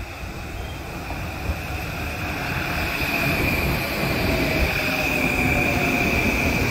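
Shore Line East M8 electric multiple-unit train pulling into the station past the platform. It grows louder as it comes alongside, with a rumble and a steady high-pitched squeal.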